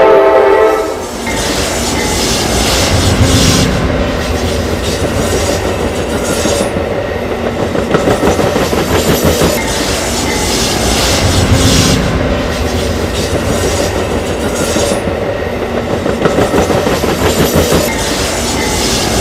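A train horn chord cuts off about a second in. Then comes the rumble and clickety-clack of a passing train's wheels on the rails, swelling every few seconds.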